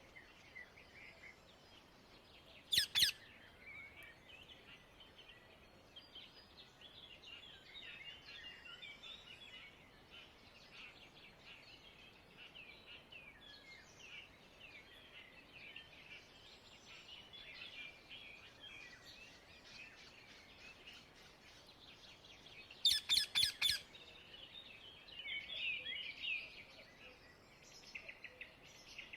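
Rose-ringed parakeets calling: two sharp, loud screeches about three seconds in and a quick run of four near the end, over continuous high-pitched bird chatter.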